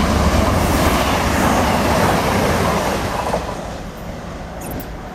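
A train running past on the line, a loud rush of wheel and rail noise with some clickety-clack, dying away about three and a half seconds in.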